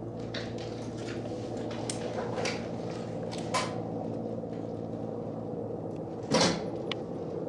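Steady engine drone of aircraft overhead, with several faint knocks and one loud short thump about six seconds in.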